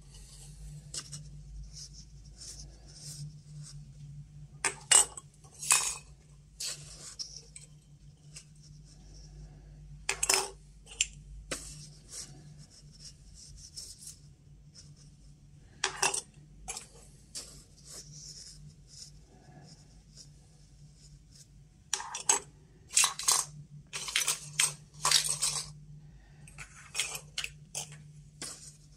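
Small metal Geiger counter tubes clinking and clicking against each other and the tabletop as they are picked up and turned by hand, in irregular bursts, over a steady low hum.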